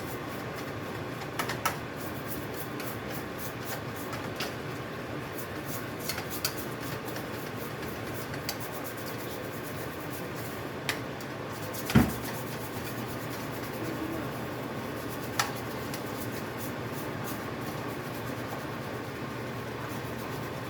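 Scattered light clicks and clatter of objects being handled, with one louder knock about twelve seconds in, over a steady low hum.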